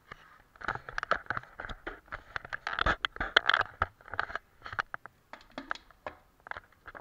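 Watercolour painting tools being worked: irregular scraping and quick clicking taps, busiest in the middle and thinning out towards the end.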